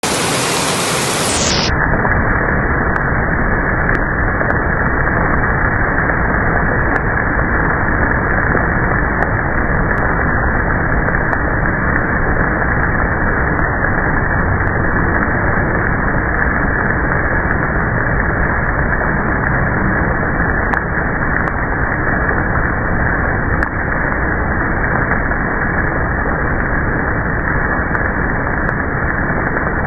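Heavy rain pouring onto pavement and grass, recorded on a mobile phone: a loud, steady hiss that turns duller and muffled about two seconds in.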